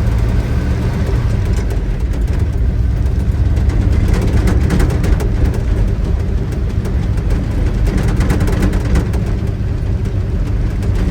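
Pickup truck's engine and drivetrain running while driving, heard from inside the cab as a steady low drone with road noise. There is a run of rattling clicks about four to five seconds in.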